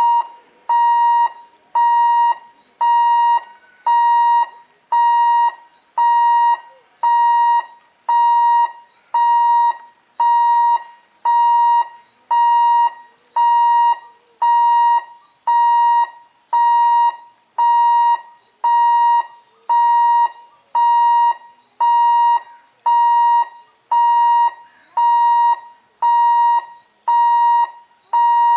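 Level crossing warning buzzer beeping steadily, one high electronic beep a little more often than once a second, warning road traffic that a train is coming.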